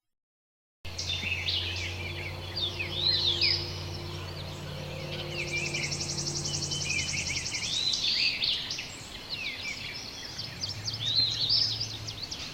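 Eastern bluebirds churbling, a run of soft slurred chirps, starting about a second in, mixed with tufted titmouse calls and a pine warbler's fast steady trill about halfway through. A faint low hum sits beneath the first half.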